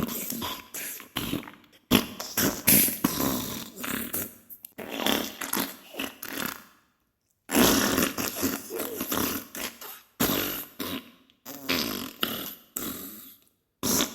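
Diarrhea sound effect: sputtering farts in bursts of a second or two, with brief silent gaps and one longer pause about halfway through.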